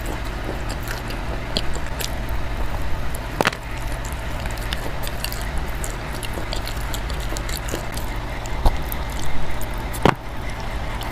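Chalk being chewed: scattered crisp crackles, with two sharper crunches about three and a half seconds in and near the end, over a steady low hum.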